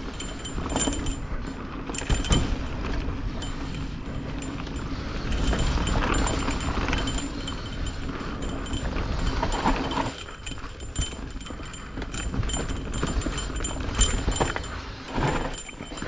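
Mountain bike being ridden along a dirt trail: a continuous rumble of tyres on the ground with frequent rattling and clicking from the bike over rough terrain.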